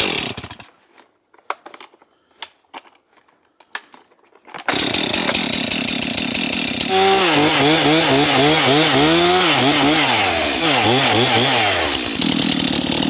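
Two-stroke chainsaw being pull-started: a few short, sharp pull-cord sounds, then the engine catches about four and a half seconds in and runs. From about seven seconds it is revved up and down repeatedly for several seconds, then drops back to a steadier fast idle near the end.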